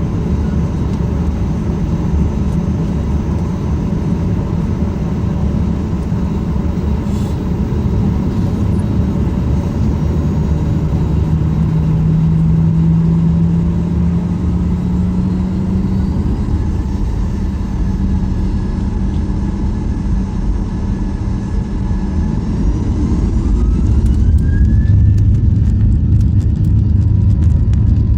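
Boeing 737-800's CFM56-7B jet engines heard from inside the cabin: a steady low rumble with a droning tone. Near the end a rising whine comes in and the rumble grows louder, as the engines spool up.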